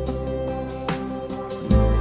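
Background music: gentle acoustic guitar with sustained bass notes and plucked chords.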